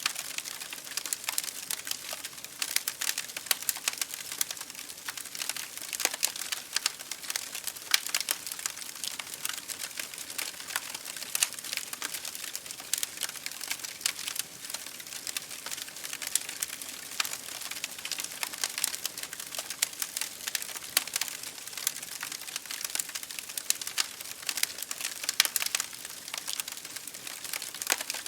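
Campfire crackling steadily, a dense, irregular run of small sharp snaps over a soft hiss.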